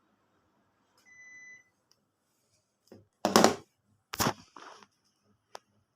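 A Panasonic split air conditioner's indoor unit giving one short beep, the acknowledgement of a remote-control command. A few seconds later come two loud knocks or rustles close together, a smaller one, and a click near the end.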